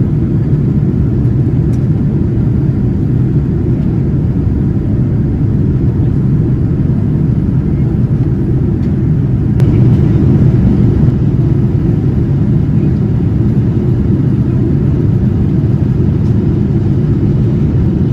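Steady low rumble of engine and airflow noise inside the cabin of a Boeing 787-9 in flight, getting slightly louder about ten seconds in.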